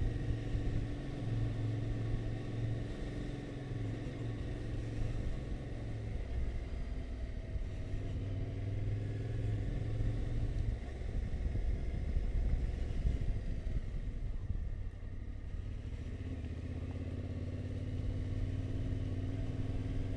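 Yamaha Tenere 700's parallel-twin engine running at low speed, its pitch easing up and down a little as the bike picks its way along a gravelly lane.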